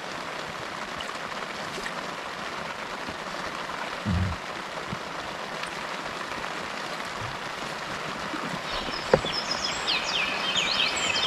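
Steady rain falling, its hiss growing a little louder toward the end as the shower gets heavier. In the last few seconds a bird chirps rapidly, high-pitched, over the rain.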